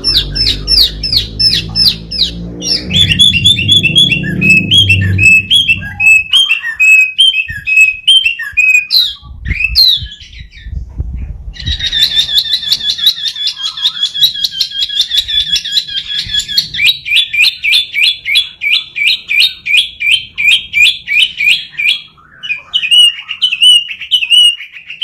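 Hwamei singing loudly: a fast run of repeated whistled notes, several a second, with a short pause about ten seconds in before the song starts again.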